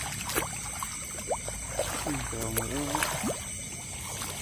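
Footsteps sloshing and splashing through shallow rice-paddy water, with scattered sharp clicks. A short low voice comes in a little past two seconds in.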